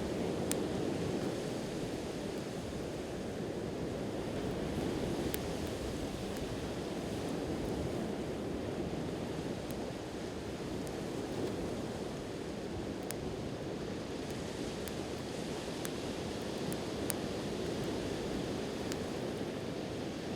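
Steady wash of sea surf with a wood campfire burning close by, giving a few sharp, scattered crackles and pops.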